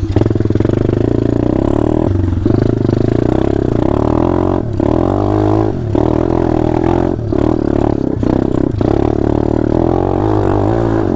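Small single-cylinder four-stroke pit bike or minibike engine being ridden hard off-road, revving up and down with the throttle, with several brief drops in pitch and level where the throttle is cut or a gear changes, and some clatter from the bike.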